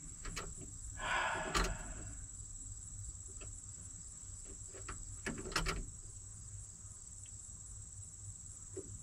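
Insects trilling steadily at a high pitch, with a few faint clicks and knocks and a short rustle about a second in. The excavator does not start: no engine turns over, the machine dead after its new batteries were hooked up.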